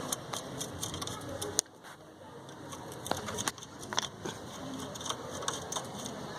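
Scattered sharp clicks and knocks of a combination plier and screwdriver working on the motorcycle's exhaust fitting, with the sharpest click about one and a half seconds in.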